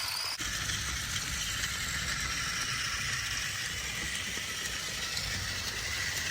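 Battery-powered Trackmaster Thomas toy engine running along plastic track, its gearbox making a steady rattle. The sound changes abruptly about half a second in.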